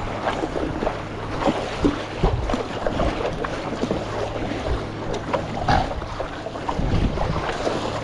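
Water splashing and sloshing around a stand-up paddleboard on choppy sea, with irregular sharp slaps of water and wind buffeting the microphone.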